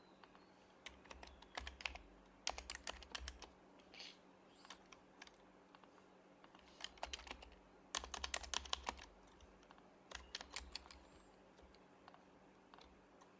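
Typing on a Happy Hacking Keyboard Professional HYBRID Type-S, its silenced Topre capacitive switches giving soft, quick keystrokes in short bursts with pauses between.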